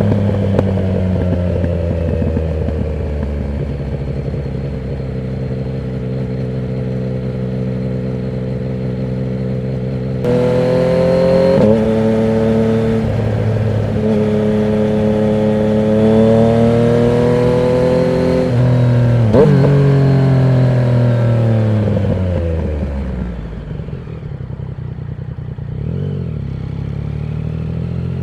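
Yamaha MT-09's inline-three engine through a Termignoni exhaust with the dB killer removed, riding along. The pitch sags slowly at first; about ten seconds in the throttle opens and the engine pulls with a rising note, then after a quick dip near two-thirds of the way the revs fall steadily as the bike slows, settling lower and quieter near the end.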